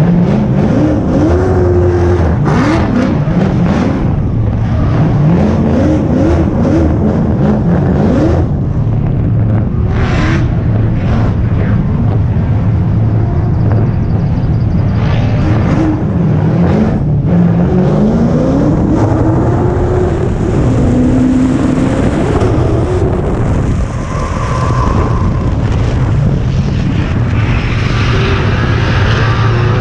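BMW E46 drift car's engine running hard on track, its pitch climbing and falling again and again as it is revved.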